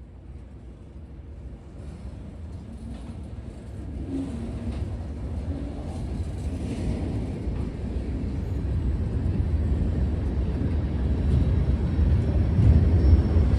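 Diesel locomotive approaching: a low engine rumble that grows steadily louder.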